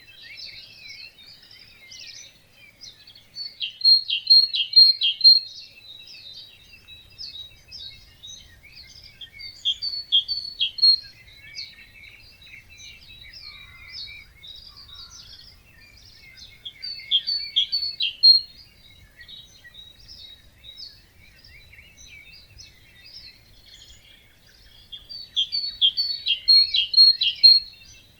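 A dawn chorus of several birds singing. One louder bird repeats a short song phrase of a few quick, sharp notes about every seven seconds, four times, over softer continuous twittering from other birds.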